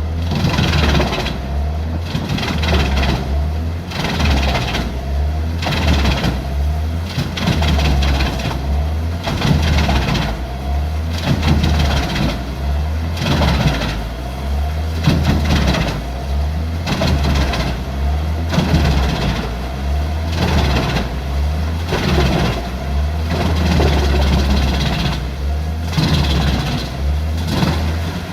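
Large industrial wood chipper running under load. A steady low engine drone lies beneath a rush of chipping noise that surges about once a second.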